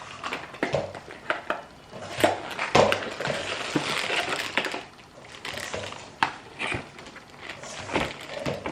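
Biscuit mix packaging rustling and crinkling, with scattered clicks and knocks of kitchen dishes and utensils. The crinkling is densest around the middle.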